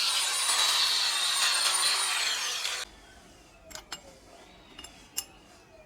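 Handheld power tool running under load with a high whine. The pitch falls as it slows just after two seconds in, then the sound cuts off abruptly, leaving a few faint clicks.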